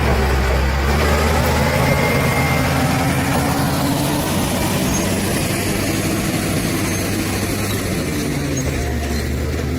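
Bulldozer's diesel engine running with a steady low note, shifting slightly for a few seconds around the middle.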